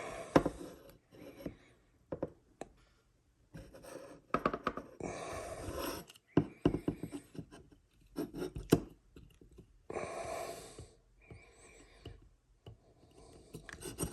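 Small steel parts clicking and scraping as a takedown-pin detent and spring are worked into an AR-15 lower receiver with a punch, with scattered light clicks and knocks. Two noisy sniffs, about a second each, come midway and about ten seconds in.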